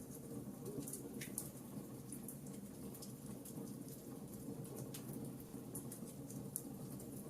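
Wood bonfire crackling, with irregular small pops and snaps over a steady low background rumble.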